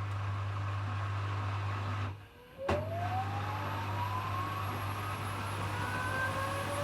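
Hoover HW411AMC washing machine in its final spin: a steady hum cuts out about two seconds in, a click follows, then the motor's whine rises steadily in pitch as the drum picks up speed.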